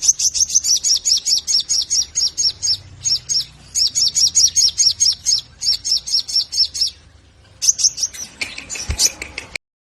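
A sogon (sogok ontong sunbird) calling a rapid string of high, down-slurred chips, several a second, in runs broken by short pauses. This is the chattering "tembakan" call used to lure caged sogon into singing.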